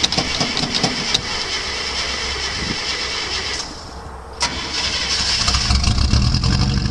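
International 345 V8 being cranked over with the starter after stalling: it cranks, stops for about a second in the middle, then cranks again, with the low rumble growing stronger near the end. The owner takes the hard start for a flooded engine.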